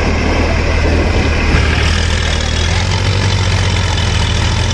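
A motor vehicle engine running steadily at idle, with a low, even hum.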